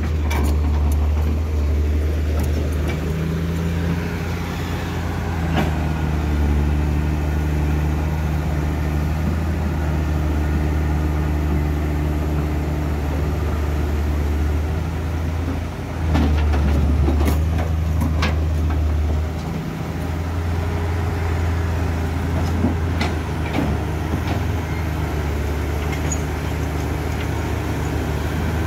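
Heavy truck engine running with a steady low drone that swells louder for a few seconds past the middle, with a few short sharp knocks around then.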